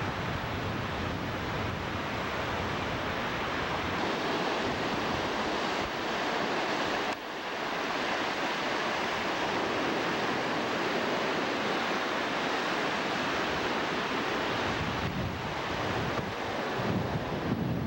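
Ocean surf breaking on a beach, a steady rush of wave noise with wind buffeting the microphone.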